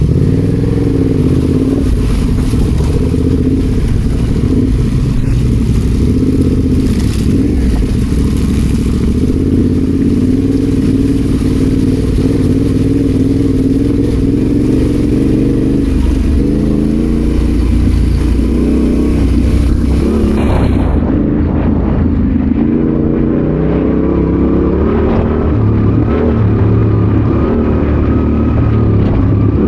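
Adventure motorcycle engine running on the move, its pitch rising and falling with the throttle. A steady hiss over it cuts off suddenly about 21 seconds in, and the engine carries on.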